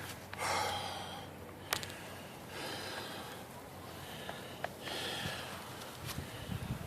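Slow, heavy breaths close to the microphone, four of them about two seconds apart, with a couple of faint clicks between them.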